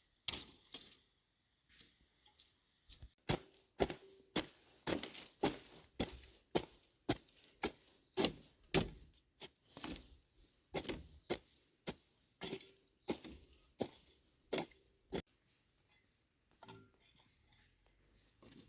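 Repeated sharp strikes on wood, about two a second for some twelve seconds, with a few scattered knocks before and after.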